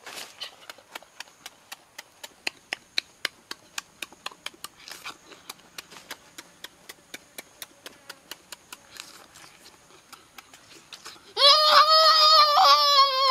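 Close-up eating of roasted shrimp: a steady run of sharp chewing and mouth-smacking clicks, about four a second. About eleven seconds in, a loud, long held vocal cry cuts in.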